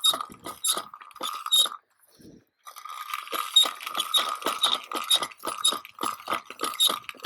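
Electric fence polywire reel unwinding as the wire is paid out, its spool squeaking and clicking in a fast even rhythm of about four a second, with a pause of about a second near two seconds in.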